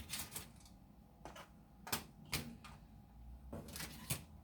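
Aluminum foil being handled and crinkled, a scattered series of short, faint crackles and clicks.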